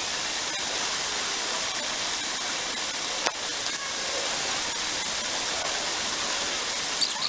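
Steady rush of a small river's flowing water, with a short crackle near the end.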